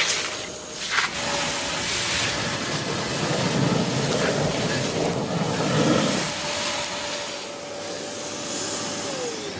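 Kärcher wet and dry vacuum cleaner running with a steady motor whine while slurping up sludge, a gurgling rush of air and liquid for a few seconds in the middle. It opens with a couple of sharp knocks. Near the end the motor is switched off and its whine falls away.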